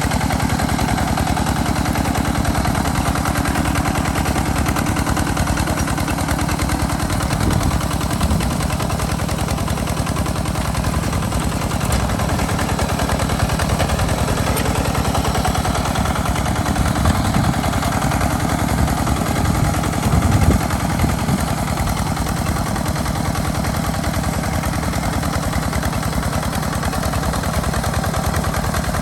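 Hand tractor engine running steadily under load while plowing sandy soil, a rapid, even chugging of firing strokes, with a few brief louder moments in the middle.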